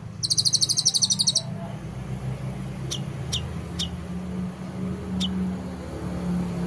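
Songbird giving a harsh, fast rattling burst of rapid high notes lasting about a second near the start, then four short, sharp chirps that sweep downward in pitch, spaced out over the following seconds. A steady low hum runs underneath.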